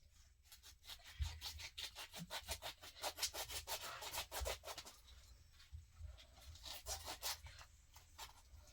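Quick repeated rubbing strokes, a few a second, thickest in the middle and thinning out toward the end.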